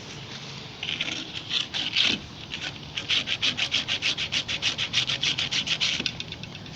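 Rapid back-and-forth abrasive scrubbing on a small part of a gas water heater, cleaning it to keep the pilot lit. It starts about a second in with a few uneven strokes, settles into a fast even rhythm of about seven strokes a second, and stops near the end.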